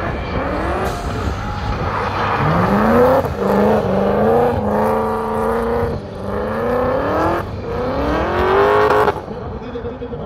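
Supercharged 4.4-litre M62B44 V8 in a BMW E30 revving hard while drifting, rear tyres spinning. Its pitch climbs in several long pulls and is held high between them, then drops off sharply about nine seconds in.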